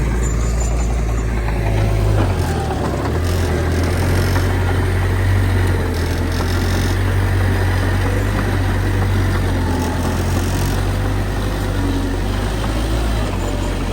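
Heavy diesel earthmoving machinery running steadily, its engine note shifting about two to three seconds in and again near the end.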